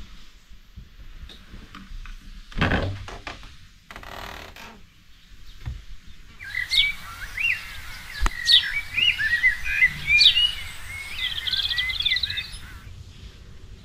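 Small birds chirping and singing, a run of quick chirps and sweeping calls for about six seconds starting about halfway through, with one sharp click among them. Before the birds, two brief rushes of noise.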